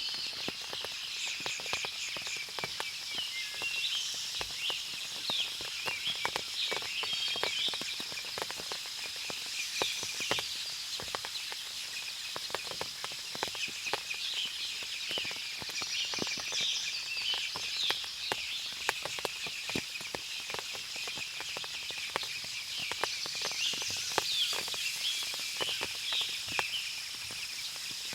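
Forest ambience after rain: birds chirping and calling over a steady high insect drone, with many scattered short ticks, like water dripping from the leaves.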